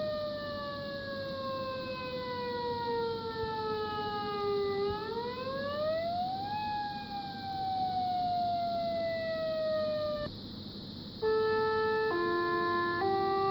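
Tsunami warning siren being tested. It sounds a wailing tone that slides slowly down, sweeps up about five seconds in, then slides down again and cuts off about ten seconds in. After a short pause it plays a run of steady, chime-like notes stepping in pitch.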